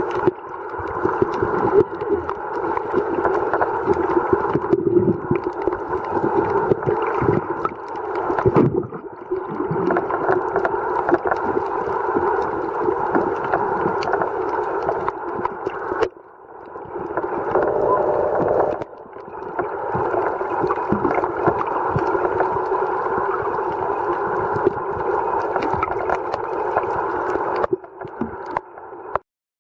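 Muffled underwater noise with constant crackling, as picked up by a camera in a waterproof housing in shallow reef water. It changes abruptly several times and cuts off just before the end.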